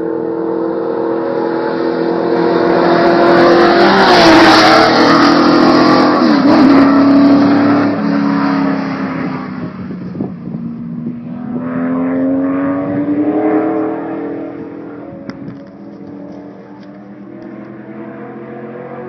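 Engine of a high-performance car, a pump-gas engine making about 540 lb-ft of torque, running loud. It swells to its loudest a few seconds in, with the pitch dipping and climbing as it revs, eases off, rises once more, then dies away.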